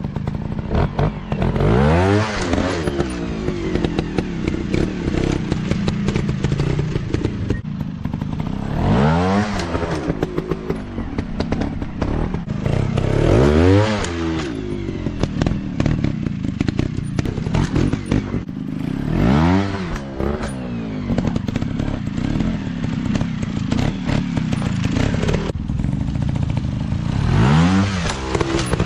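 Dirt bike engines revving hard over a continuous engine drone, the pitch sweeping up and back down about five times.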